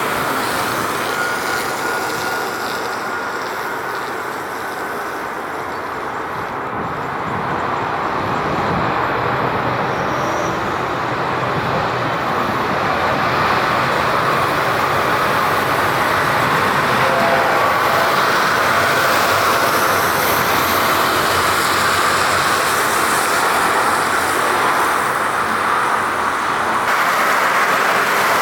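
Jet noise from an Airbus A350-900 airliner's Rolls-Royce Trent XWB engines during landing: a steady rushing sound that grows louder about eight seconds in and stays loud.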